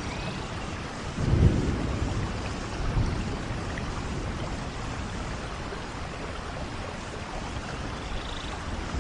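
Steady rain with low rumbles of thunder, the loudest swelling about a second and a half in and a smaller one about three seconds in.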